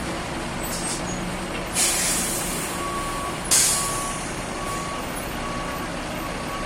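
Freightliner M2 truck's diesel engine idling, with two loud hisses of air let out of the air brake system about two and three and a half seconds in. From about three seconds in, a reversing alarm beeps steadily, a little faster than once a second.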